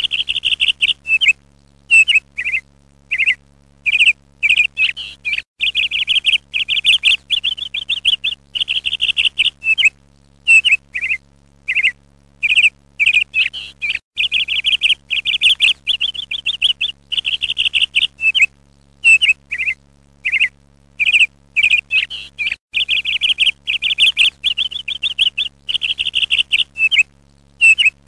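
Songbird chirping and trilling: short chirps alternating with longer trilled phrases, in repeating sequences, over a faint low hum.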